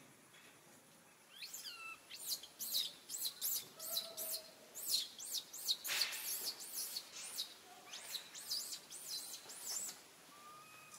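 A bird calling in a quick run of high, arching chirps, several a second, starting about a second and a half in and stopping near the end, with a few lower whistled notes mixed in.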